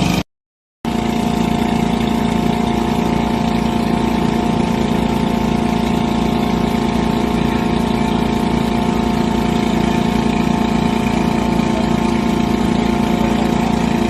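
A motor engine running steadily at an even speed, cut off by a short dead gap just after the start, then continuing unchanged.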